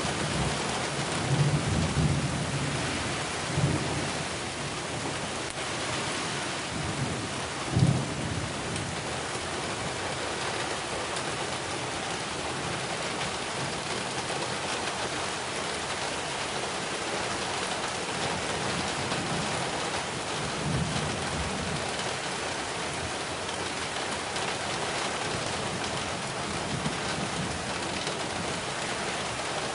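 Heavy rain falling steadily, a dense even hiss. A few short low thumps come in the first eight seconds, the loudest about eight seconds in.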